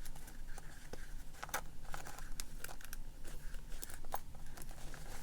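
Rustling paper and scattered small clicks and taps as a handmade journal is handled and its hummingbird clasp closure is worked to fasten it.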